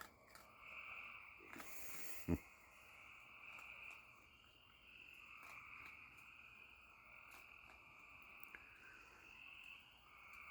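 Faint, steady chorus of calling frogs that swells and fades. One short knock sounds about two seconds in.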